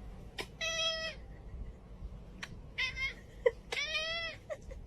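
A domestic cat meowing three times: a call about half a second in, a short one about three seconds in, and a longer one just before four seconds.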